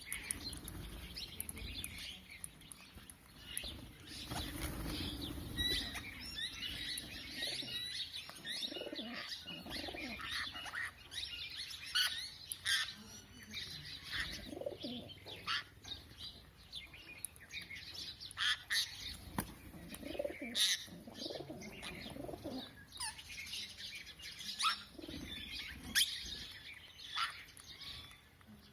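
Parrots and pigeons at a feeding spot, calling in many short, overlapping chirps, with the flutter of wings flapping.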